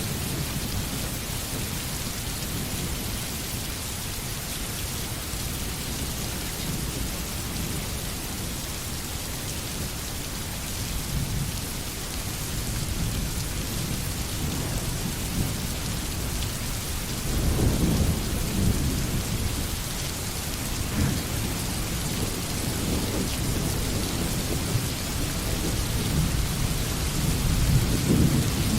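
Steady rain falling, a constant hiss, with low rolls of thunder underneath that swell about two-thirds of the way through and again near the end.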